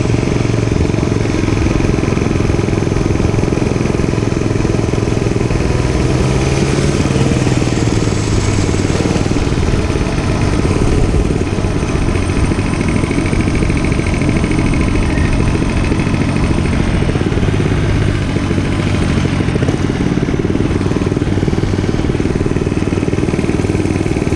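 Dirt bike engine running steadily under way, its pitch drifting gently up and down with the throttle.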